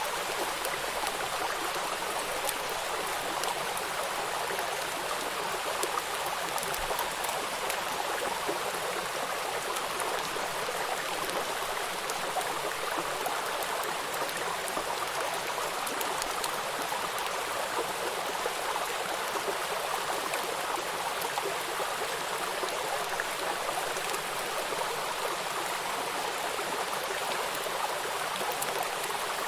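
Rain falling on a flowing river: a steady rush of running water with fine raindrop patter, unchanging throughout.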